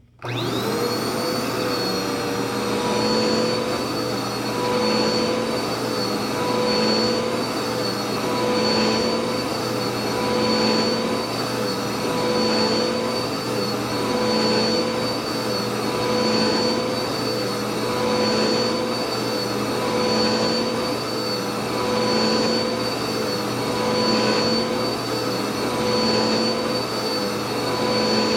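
Vacuum cleaner switching on, its motor whine rising quickly to a steady pitch, then running steadily, the level swelling and easing slightly about every two seconds.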